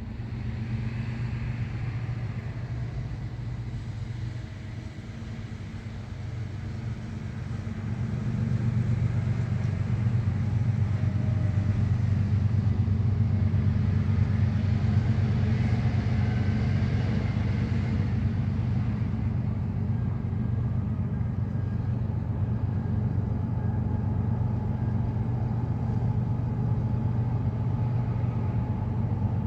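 Diesel locomotives of a CN freight train running with a steady low rumble, growing louder about eight seconds in and then holding steady.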